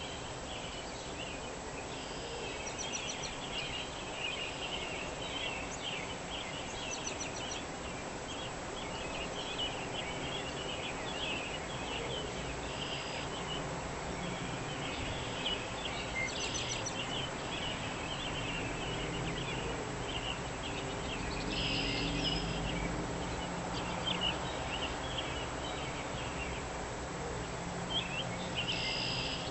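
Dawn chorus: many small birds chirping densely and continuously over a steady outdoor background hiss. A low rumble swells briefly about two-thirds of the way through.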